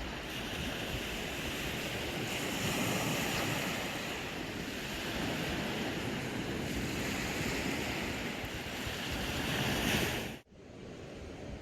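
Waves washing on a beach, with wind on the microphone; the sound swells and eases a few times, then cuts off suddenly near the end.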